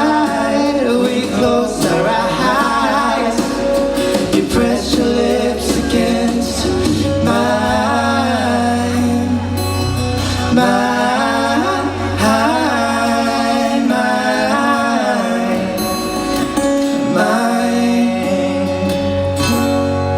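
Live band playing a song with a sung lead vocal over electric guitar and bass.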